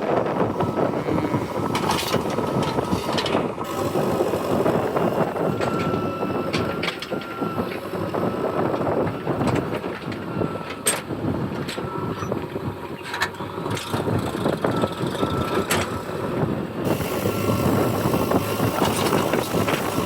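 JCB 3DX backhoe loader's diesel engine running steadily, with a thin high whine over it and several sharp knocks scattered through.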